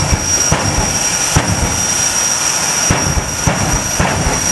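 Jet engine of a jet-powered drag car running, with a steady high-pitched whine over a loud rush and irregular sharp cracks.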